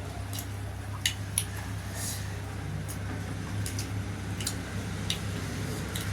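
Eating sounds of dhido and chicken curry: wet chewing and mouth smacks, with short sharp clicks at irregular times, over a steady low hum.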